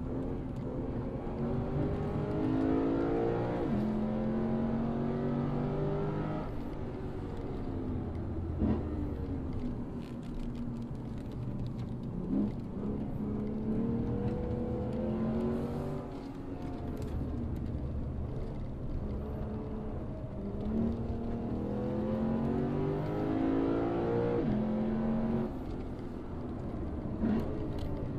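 Lexus RC F's 5.0-litre V8 pulling hard through the gears. The revs climb and fall back sharply at each upshift, repeated in several runs of acceleration with brief lifts between them.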